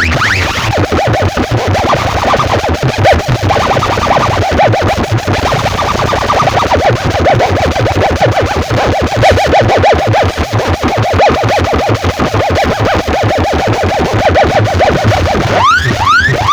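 Loud electronic warbling tone, pulsing rapidly over a deep low throb, breaking into repeated rising chirp sweeps near the end.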